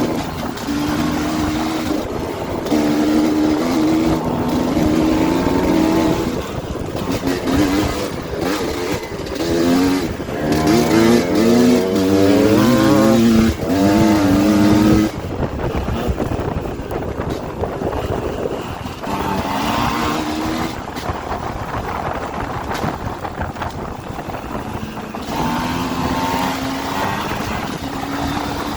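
Dirt bike engine revving through the gears, its pitch repeatedly climbing and dropping, loudest about ten to fifteen seconds in.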